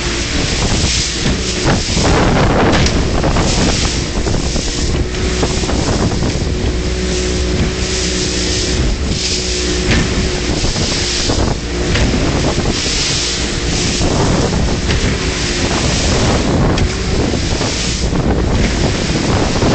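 A boat engine running steadily under way, buried in heavy wind buffeting on the microphone that rises and falls in gusts.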